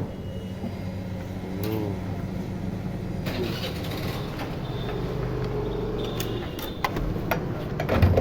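Motor vehicle engine running steadily at a petrol pump, with several sharp clicks and knocks near the end.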